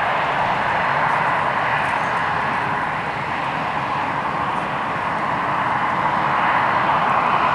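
Jet airliner engines making a steady rushing roar that grows a little louder near the end.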